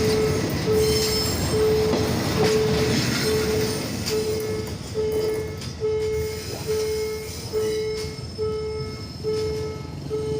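Train running on the Thai southern line: a rumble with wheel knocks over the rail joints. Through it comes a repeating electronic beep, a little more than once a second.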